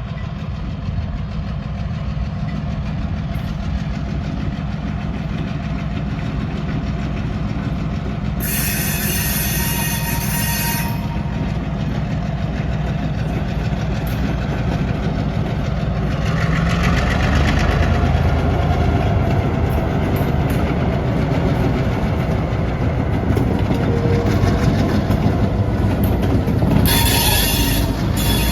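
Two diesel locomotives pulling a short freight train past a grade crossing: a steady low engine rumble that grows louder as the train comes on, with two short bursts of high hiss, about a third of the way in and near the end.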